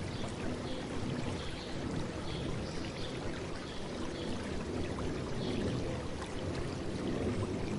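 A river flowing and babbling steadily. Faint short high chirps from a small bird repeat over it every second or so.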